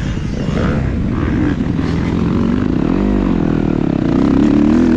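Motocross dirt bike engines revving up and down, the pitch rising and falling as the throttle opens and closes, with a clear swell about three seconds in.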